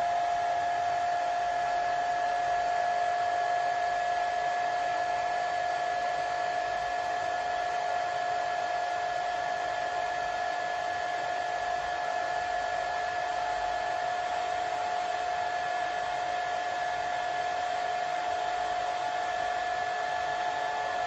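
Hair dryer running steadily: a constant rush of air with an unchanging whine on top.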